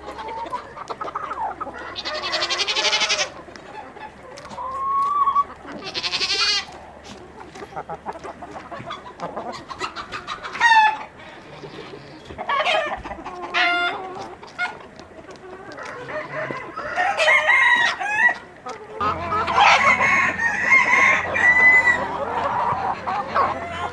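A flock of chickens clucking and calling, many short calls overlapping, with a rooster crowing. The calls grow busier and louder in the last third.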